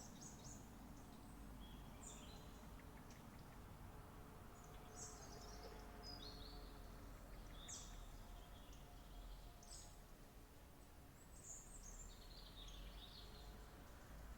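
Faint wild birds chirping, with many short high calls and brief trills coming one after another, some overlapping, over a quiet steady background hum.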